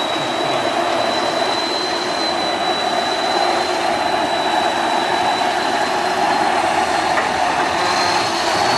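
Tatra 815 6x6 truck's diesel engine running steadily, with a thin high whine that creeps slowly upward in pitch.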